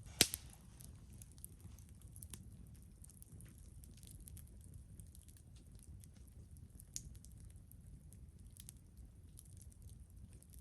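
Wood campfire crackling, with scattered small snaps and a sharp pop just after the start and another about seven seconds in.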